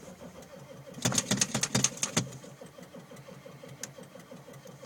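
1995 Ford F-350's 7.3 L Powerstroke turbo-diesel V8 cranking on the starter in deep cold, with an even chugging rhythm. About a second in, a run of louder knocks for about a second as it tries to fire, but it does not catch.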